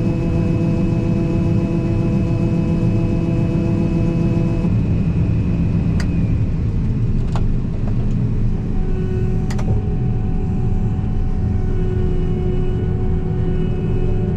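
Combine harvester running steadily while harvesting corn: a continuous low machine drone with steady tones, and a few sharp clicks in the middle.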